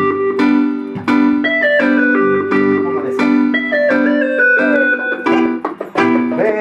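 Instrumental intro of a reggae song played live by a band, led by keyboard chords with a melody line stepping through the notes.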